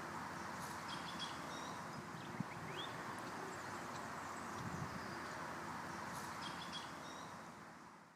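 Outdoor ambience: a steady background hiss with a few short, high bird chirps, one rising, and a single sharp tick about two and a half seconds in; everything fades away at the very end.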